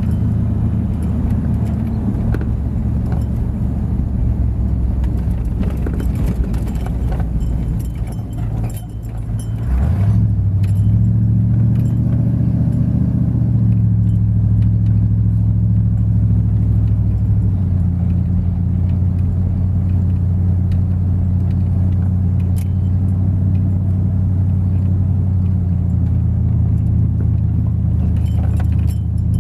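Truck engine running while driving: a steady low drone that dips briefly about nine seconds in, then comes back at a higher pitch that drops again a few seconds later.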